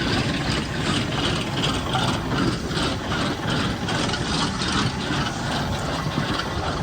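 Truck engine running steadily, with a dense, even noise and a faint regular pulsing.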